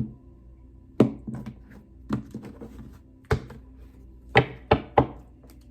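Tarot cards being cut and set down on a table: about seven sharp taps at uneven intervals, the last three in quick succession near the end.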